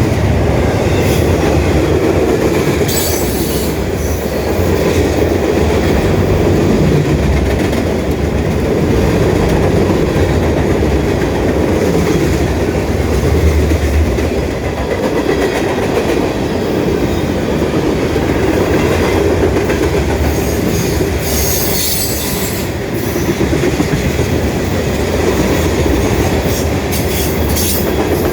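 Norfolk Southern freight train cars rolling past with a steady rumble and clatter of wheels over the rails, with brief high squeals from the wheels a few times.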